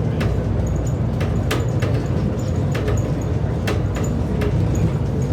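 Steady low rumble of a moving vehicle, heard from inside, with sharp clicks and rattles every half second or so.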